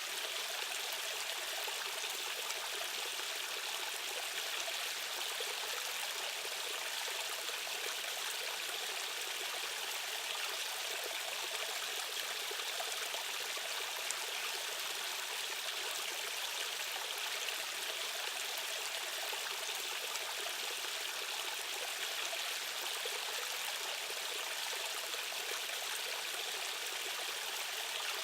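A stream's current rushing and splashing over rocks, a steady even water noise without change.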